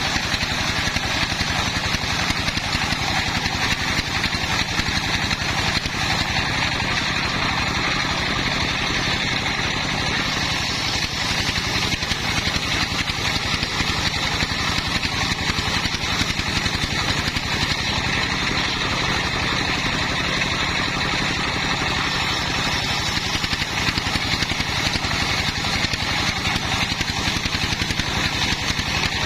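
Engine of a homemade circular saw rig running steadily with an even pulsing beat and a steady higher whine over it.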